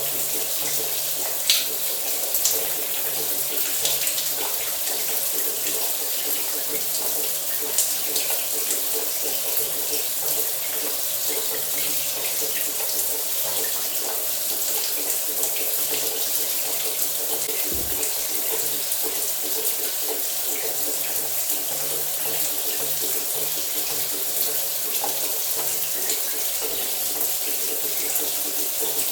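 Shower water running steadily, a continuous spray hiss with occasional faint droplet ticks.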